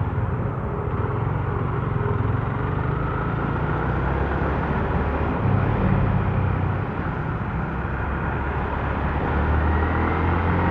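Motorcycle engine running steadily while riding through city traffic, with road noise around it; the engine note rises near the end as it speeds up.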